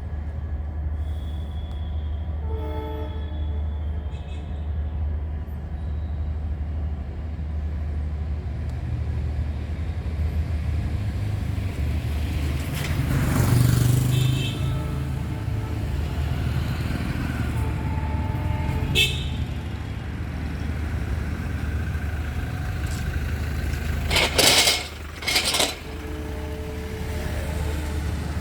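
Railway station ambience: a steady low rumble with a few short horn toots, and two loud rushing swells about halfway through and near the end.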